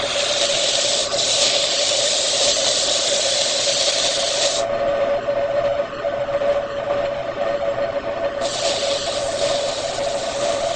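Wood lathe running with a steady hum while something rubs and rasps against the spinning wooden workpiece. The rasping stops about four and a half seconds in, leaving only the lathe's hum, and starts again near the end.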